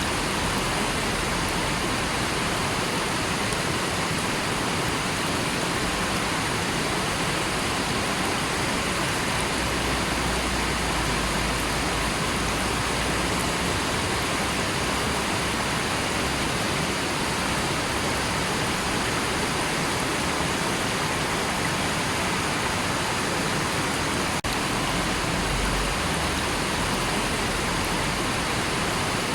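River water flowing, a steady, unbroken rushing with no changes.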